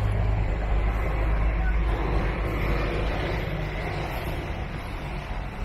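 Low engine rumble of a passing vehicle, slowly fading.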